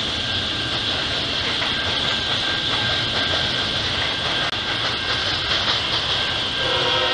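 Double-stack container train rolling past: a steady rush and rumble of steel wheels on rail. Near the end a locomotive horn starts sounding, several notes held together.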